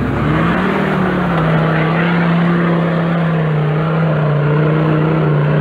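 Off-road 4x4's engine revving up in the first second and then held at steady high revs.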